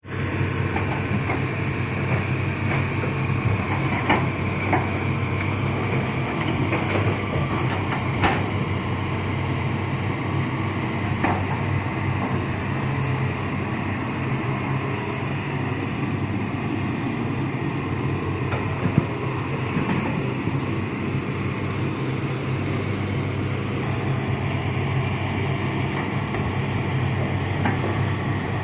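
Heavy diesel earthmoving machinery running steadily, with a few sharp knocks and clanks, as from rock being loaded.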